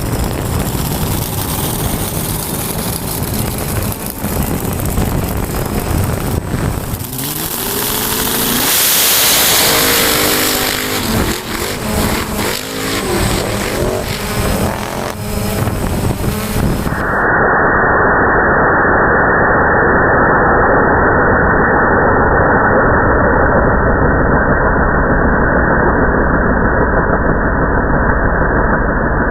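Mud-bog race truck engines running hard, their revs rising and falling in the middle. About two-thirds of the way in, the sound switches abruptly to a steady, muffled engine drone.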